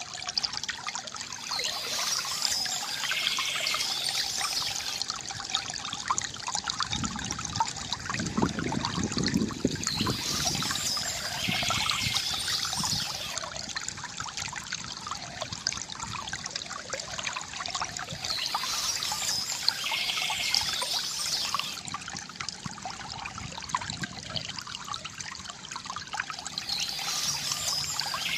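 Water trickling and pouring from a bamboo fountain, a steady gurgling flow that swells deeper for a couple of seconds about a third of the way in.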